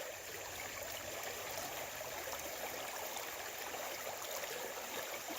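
Creek water running high and steady, an even rushing hiss.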